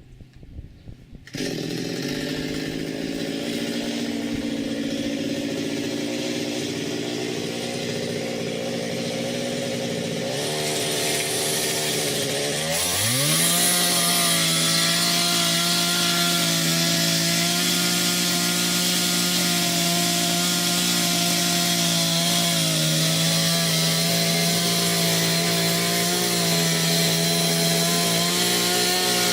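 Small chainsaw starting up abruptly, running at a lower speed, then revving to full throttle about halfway through and holding a steady high pitch with slight dips, as when cutting into the ash trunk.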